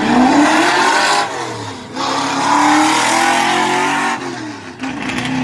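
Ford XF Falcon drag car's 302 Windsor V8 at full throttle, its note rising, then dropping away sharply about a second in and again near the end before picking back up. The driver can't explain the stumble and wonders whether the engine overfuelled or starved of fuel for a moment.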